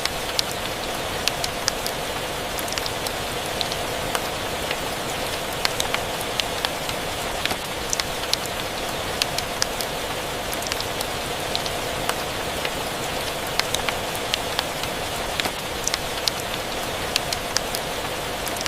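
Rain ambience mixed with a fireplace: a steady, even rain hiss with frequent short, sharp crackles and pops scattered irregularly through it.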